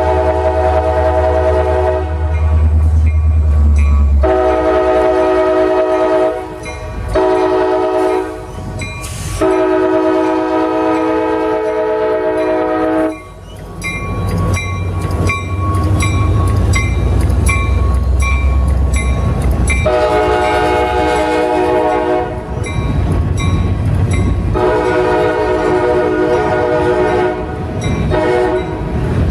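CSX freight locomotive's multi-chime air horn blowing a series of long blasts with one short one, the pattern for a road crossing, then two more long blasts later. Between the blasts the low rumble of the passing locomotive and wheels comes through.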